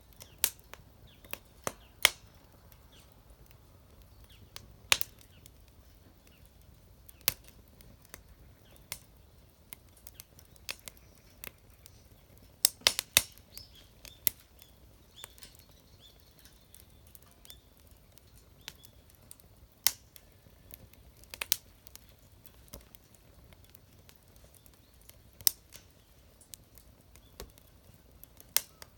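Wood fire crackling: irregular sharp pops and snaps, a few of them much louder, over a quiet background.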